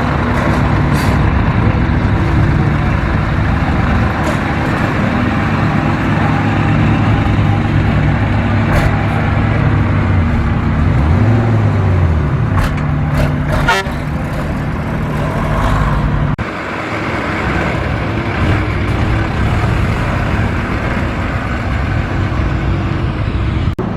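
Vehicle engines running close by, with a low steady engine note. Around the middle one engine revs up and back down, and about two-thirds of the way in the sound changes abruptly.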